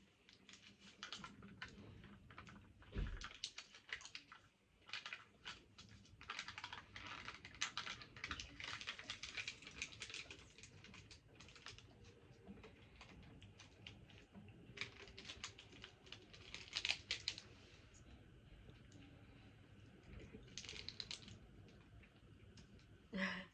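Plastic snack packaging being handled and opened: irregular runs of crinkling and rustling with small clicks and taps, as a flan cup is unwrapped. There is a dull knock about three seconds in.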